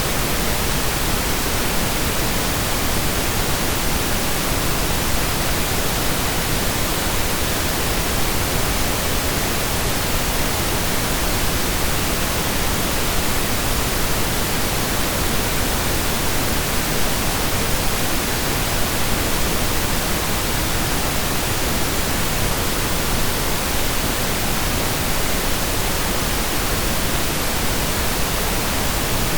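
Steady synthesized pink noise: an even, unchanging hiss spread across the whole range, like steady rain or a waterfall.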